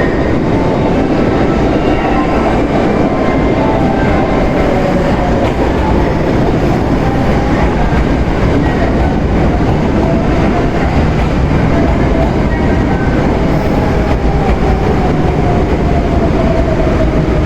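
Hanshin Railway electric train running, a steady loud rumble of wheels and motors with a whining tone that slowly falls in pitch near the end.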